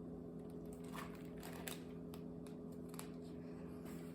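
Faint clicks and soft paper rustling from a picture book being handled, over a steady low electrical hum.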